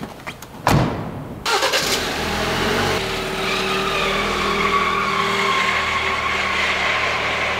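Jeep Wrangler door slams shut, then about a second later the engine starts and settles into a steady idle, its pitch easing down slightly, in an underground parking garage.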